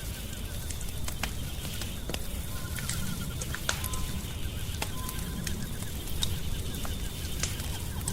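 Wood fire crackling in a fireplace, with sharp scattered pops over a steady low rumble. A rapid run of chirps sounds briefly about two and a half seconds in, and short piping notes follow.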